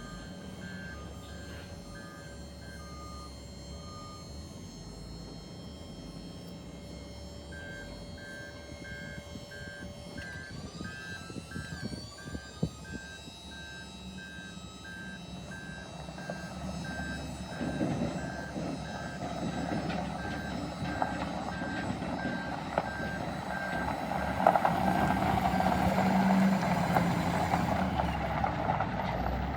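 Ford F350 dump truck running, with its reversing alarm beeping in a steady, even rhythm; the beeping stops for a few seconds and then starts again. The truck's running sound grows louder over the last dozen seconds.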